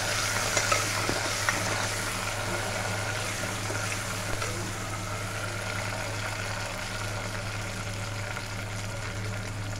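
Curry leaves, garlic and green chillies sizzling in hot oil in a clay pot, a steady frying hiss that eases slightly as it goes, over a low steady hum.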